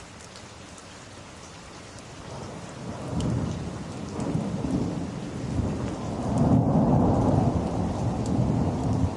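Steady rain with a long roll of thunder that swells in about three seconds in, is loudest around seven seconds and is still rumbling at the end.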